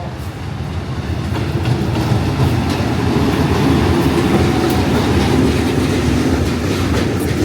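A train moving along the tracks close by, its wheels and cars running noisily. It grows louder over the first few seconds, then holds steady.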